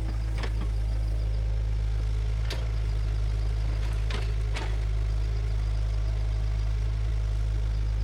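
Bulldozer's diesel engine running steadily, with a few short, sharp metal clanks from the machine.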